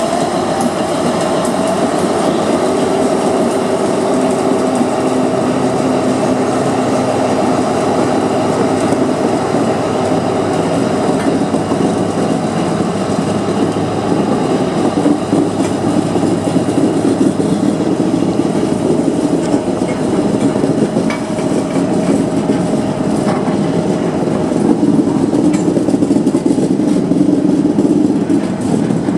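Freight train of PCA cement tank wagons hauled by a Class 60 diesel locomotive rolling slowly past, a steady rumble with occasional clicks from the wheels, getting a little louder near the end.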